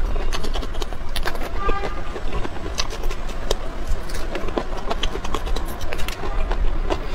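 Close-miked chewing of raw chilies and steamed bun: a dense run of short wet crunches and mouth clicks, over a steady low hum.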